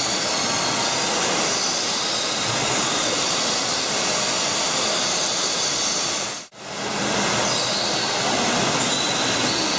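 Birds chirping over a steady rushing noise in an aviary. The sound drops out for a moment about six and a half seconds in.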